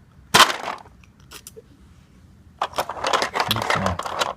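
Hard plastic toys clattering and scraping as they are handled: a sharp clack about half a second in, then a longer stretch of rattling and clicking in the second half.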